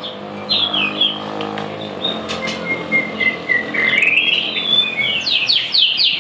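A murai songbird singing a varied run of whistled, sliding phrases, with a quick series of rapid notes near the end. A low steady hum sits under the first two seconds.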